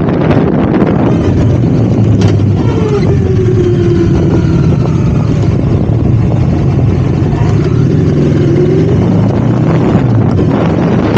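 Motorcycle engine running as the bike rides, with wind noise on the microphone. The engine note falls about three seconds in and stays low, as the bike slows and the wind rush eases. It climbs again near the end as the bike speeds back up.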